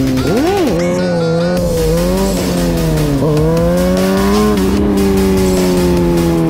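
Suzuki GSX-R750 inline-four through a cat-deleted mid-pipe and M4 slip-on exhaust, revving with a quick throttle blip about half a second in, then rising and falling with the throttle, with background music with a beat.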